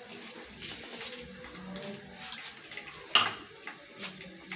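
Ginger-garlic paste frying in hot oil in a pan, a steady gentle sizzle, with two sharp clicks, one about two seconds in and another about a second later.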